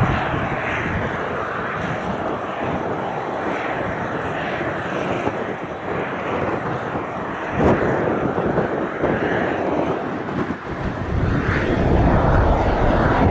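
A passenger jet's engines on departure make a loud, continuous rush of noise. Gusty wind hits the microphone, with rumbling surges partway through and again near the end.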